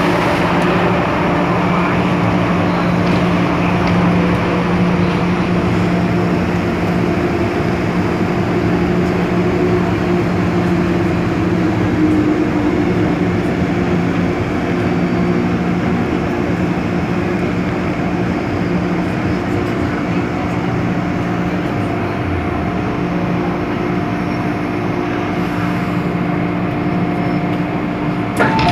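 Inside a moving MTR M-Train metro car: steady rolling rumble of the train running along the track, with a constant hum from the traction equipment. Near the end there is a click and a new, higher tone comes in.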